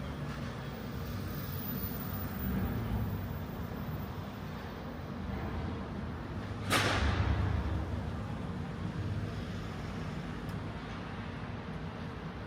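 Steady low background rumble of a busy city building's ambience, with a sudden loud hiss about seven seconds in that fades out over about a second.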